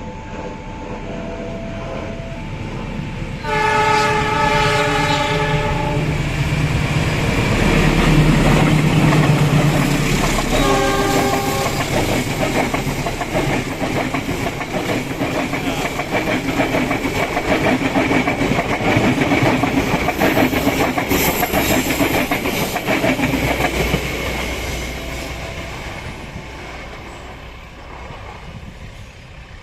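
Kamandaka passenger train sounding its horn in a long blast, then a short one, and running past with wheels clattering over the rail joints. The passing noise fades over the last few seconds.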